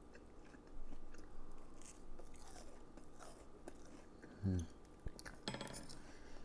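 Close-up chewing of a crispy deep-fried pork cutlet (tonkatsu) coated in fresh, wet-style breadcrumbs, with small faint crunches as the crust breaks. A brief low sound comes about four and a half seconds in, and a short louder one about a second later.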